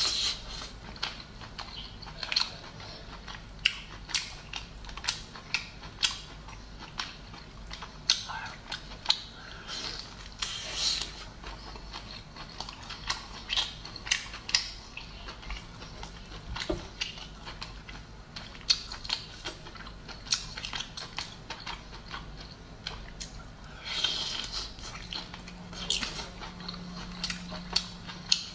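Close-up eating sounds of a person chewing steamed lobster meat: wet chewing with frequent short, irregular clicks and smacks.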